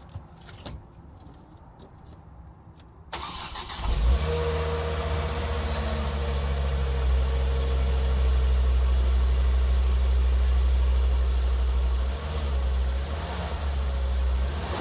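Volvo C30 T5's turbocharged five-cylinder engine cranked and started about four seconds in, then idling with a steady low exhaust drone. The level shifts a little near the end.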